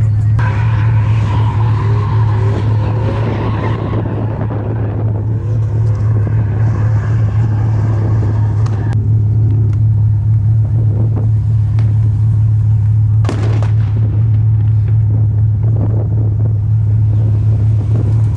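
Steady, loud low rumble of a truck engine, with indistinct wavering background noise over the first half and a few sharp knocks later on.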